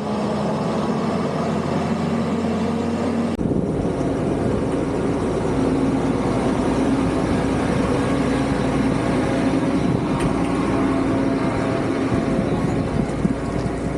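Steady road and wind noise from riding on the road, with an abrupt cut about three and a half seconds in.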